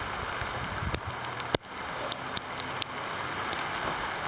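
Steady rain falling after a heavy downpour has eased, with a few sharp taps scattered through, the loudest about one and a half seconds in.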